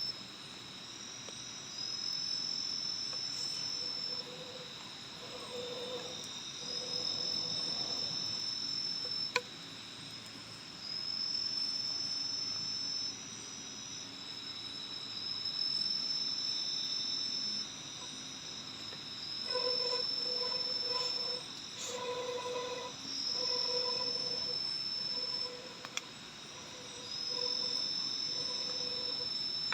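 Insects calling in the forest: a high, drawn-out trill repeats every two to three seconds over a steady high-pitched chirring. About two-thirds of the way in, a lower pulsing call joins, broken into short beats.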